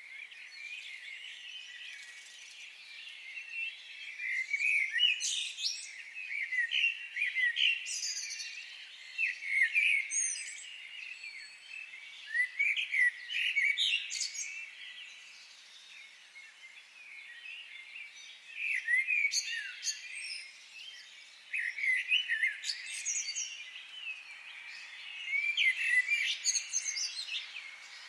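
Several small wild birds singing and calling in a forest: rapid high chirps and trills in bouts every few seconds, over a faint steady hiss.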